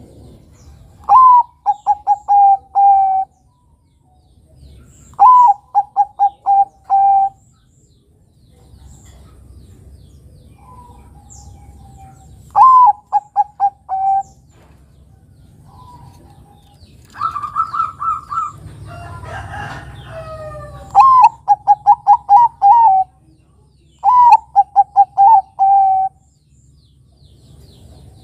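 Zebra dove (perkutut, Bangkok strain) cooing its song: about five phrases a few seconds apart, each a rising first note, then a quick run of short notes ending on a longer held note. A higher, steadier call with some chirping overlaps one phrase in the middle.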